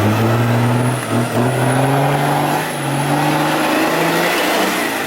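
Off-road 4x4's engine revving hard under load as the vehicle struggles to climb out of a deep hole, the revs rising slowly and easing off near the end. A thin high whine runs above it from about a second in.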